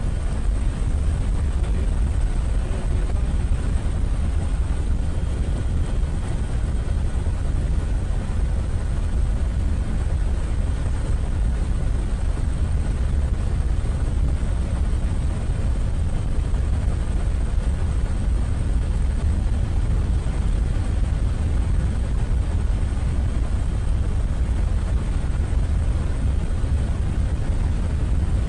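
Steady low rumble of a helicopter's engine and rotor, heard from aboard the aircraft, with a few faint steady whines above it.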